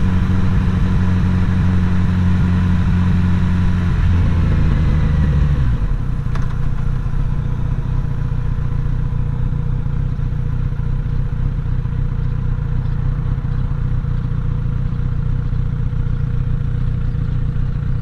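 Motorcycle engine running as the bike rolls along, its revs dropping away about four to six seconds in as it slows for a stop, then idling with a steady, even throb.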